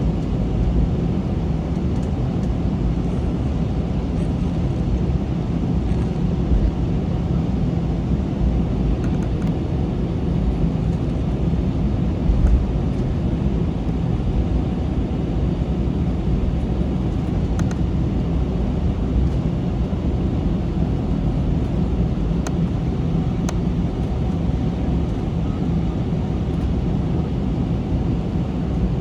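Steady cabin noise of an Airbus A321 climbing out after takeoff: a low, even rumble of the jet engines and rushing air.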